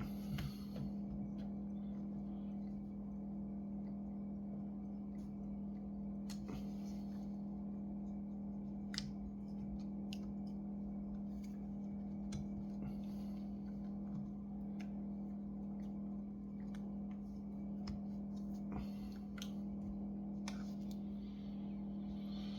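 Scattered small clicks and taps, as of tools and small parts being handled while working inside a laptop, over a steady low hum.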